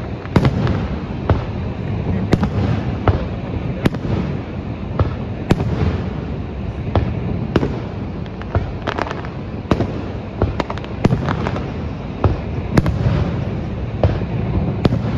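Aerial fireworks display: shells bursting in sharp bangs at an irregular pace, about one or two a second, over a steady low rumble.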